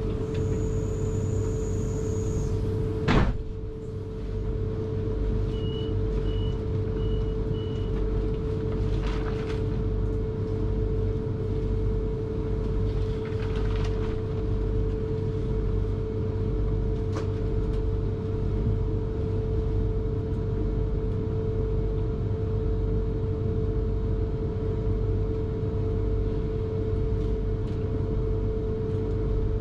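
Inside a South Western Railway electric train carriage: a steady hum and low rumble, a sharp clunk about three seconds in, then four short high beeps of the door warning, followed by fainter door and air sounds.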